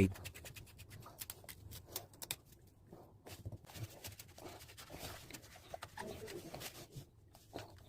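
Faint, scattered clicks and light knocks of a tap's body cover and cover plate being handled and fitted onto the tap body.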